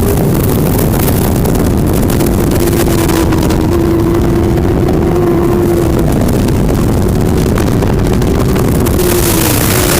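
Racing superbike engines running at high revs, a continuous drone whose pitch sags slowly and then climbs again, over a heavy low rumble.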